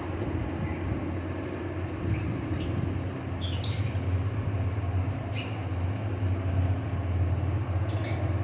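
Parrot squawking: three short high-pitched squawks, the loudest about four seconds in, over a steady low hum.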